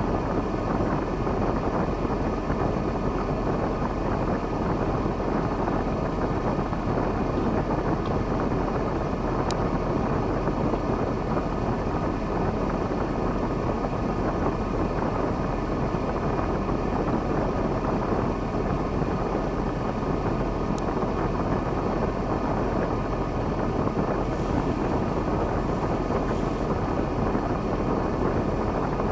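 Diesel engine of a KAMAZ timber truck running steadily, with an even, unbroken drone.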